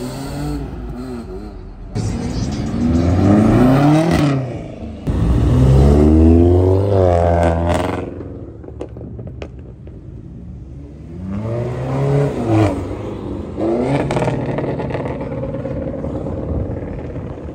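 Car engines revving and accelerating hard several times, the pitch climbing with each pull; the loudest, longest pull comes about five to eight seconds in. A quieter stretch with a few clicks follows before more revs.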